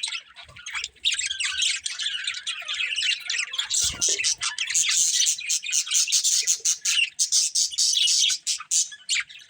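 Budgerigars chattering in a rapid, near-continuous stream of chirps and warbles, with a short lull just after the start. A soft low knock sounds about four seconds in.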